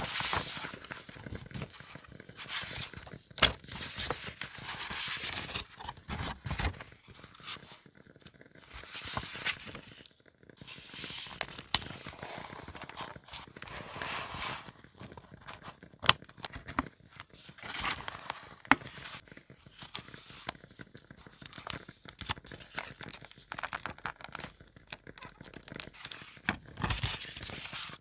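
Paper being handled for journaling: tearing, rustling and crinkling in repeated strokes of a second or two, with occasional sharp clicks.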